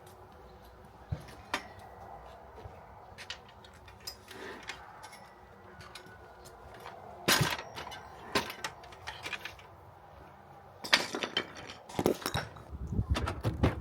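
Scattered light clinks and knocks of hand work on a wooden ceiling: tools, fasteners and wooden panels being handled and set down. The loudest knocks come about seven seconds in, then again around eleven to twelve seconds, with a short cluster near the end.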